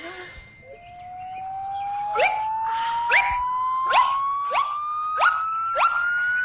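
Cartoon sound effect: a whistle-like tone slowly rising in pitch, with short upward chirps repeating about every half second over it.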